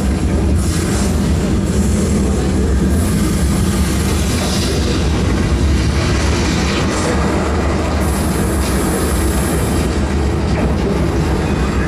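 Steady loud rumble of a vehicle in motion, with bursts of high hiss coming and going.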